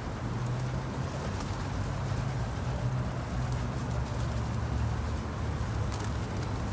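Pigeons cooing while they feed, over a steady low rumble.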